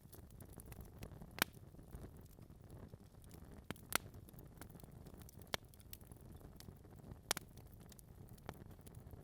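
Wood fire crackling in a fireplace, burning logs. A soft, low steady rumble of flames is broken by several sharp pops, the loudest about a second and a half in and about four seconds in.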